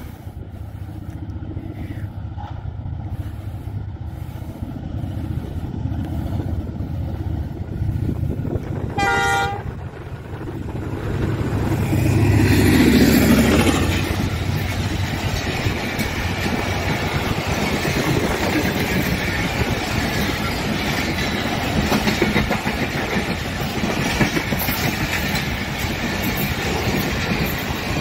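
ZCU-30 diesel-electric locomotive hauling an express passenger train, approaching with its engine running and giving one short horn blast about nine seconds in. It passes close by at speed, loudest about twelve to fourteen seconds in, and then the coaches' wheels clatter over the rail joints in a steady rumble.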